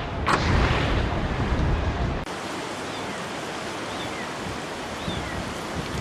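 Outdoor noise: wind buffeting the microphone for about two seconds, then an abrupt change to a steady rushing hiss with a few faint short chirps.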